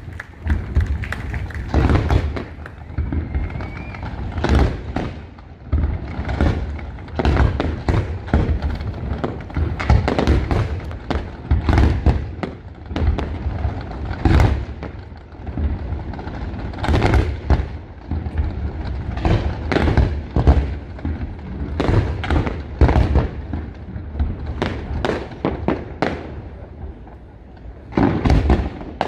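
Aerial fireworks display: shells bursting overhead in an irregular, continuous run of deep booms and sharper bangs, about one or two a second.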